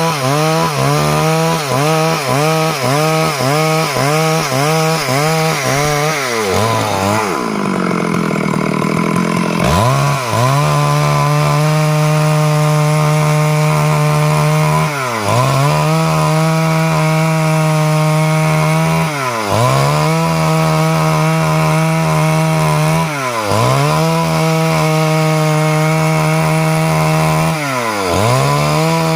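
Stihl MS 382 two-stroke chainsaw cutting wood. For the first few seconds its engine pitch dips about twice a second; about six seconds in it drops back toward idle, then revs up again about ten seconds in. After that it runs steadily at high revs, with a brief dip in pitch about every four seconds.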